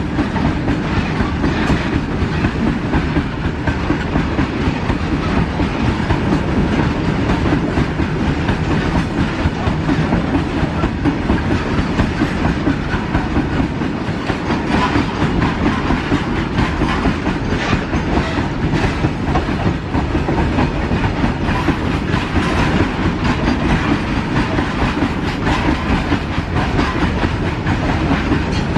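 A freight train running steadily on the rails, its wheels clattering over the track with a continuous clickety-clack and rumble.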